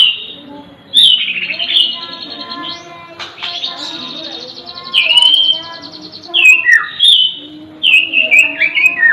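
Songbirds singing: loud, high whistled notes that sweep downward, coming in groups. Between the groups, a few seconds in, a quieter rapid buzzy trill.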